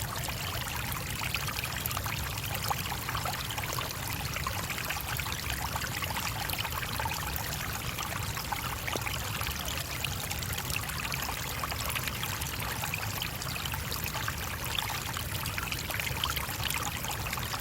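Shallow stream running over stones, a steady splashing babble with no letup.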